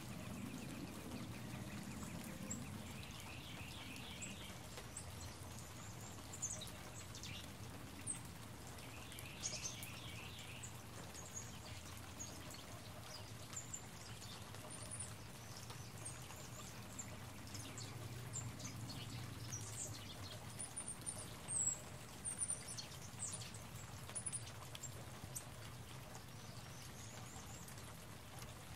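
Songbirds chirping and calling: scattered short high chirps, with two brief rapid rattling trills about 3 and 10 seconds in. A few sharp ticks and a steady low background rumble lie under the calls.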